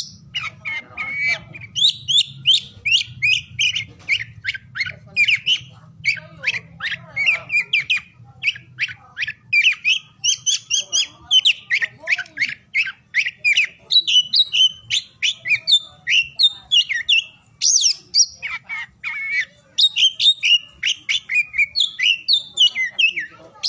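Oriental magpie-robin (kacer) singing a long, rapid, varied song of quick whistled and chattering notes with hardly a pause.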